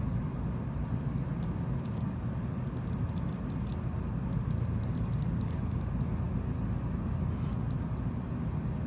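Several quick runs of small, light clicks and taps over a steady low hum.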